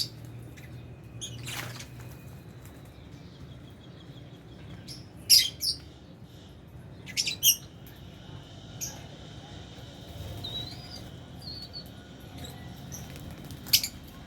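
Lovebirds chirping: sharp, high-pitched calls in pairs about five and seven seconds in and once near the end, with softer twittering between.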